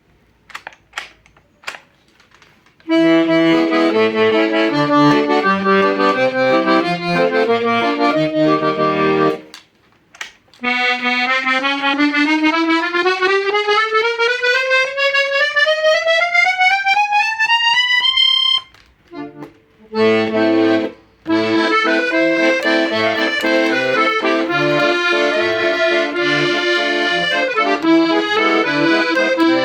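Hohner Student IV M accordion being played as a sound test. A few faint clicks open it, then chords over a rhythmic bass accompaniment, a pause, and a single-note run climbing about two octaves. After a short break, chords with a regular oom-pah bass return.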